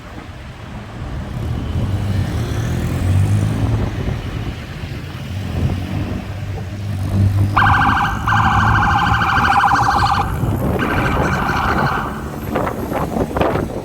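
Street traffic with a vehicle engine running past, then a loud electronic siren sounds twice with a rapidly pulsing tone: first for about two and a half seconds, then for about one second.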